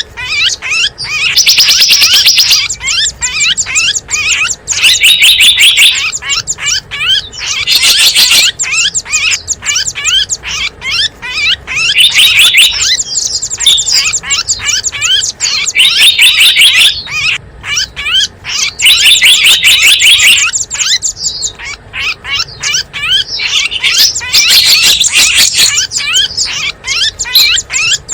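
Small songbirds chirping and twittering rapidly in dense, loud bursts that recur every few seconds: a bird-lure (pikat) call recording used to draw small wild birds in.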